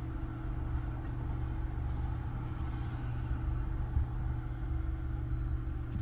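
2020 Nissan Altima engine idling steadily with an even low hum, running without the misfire it had before the repair.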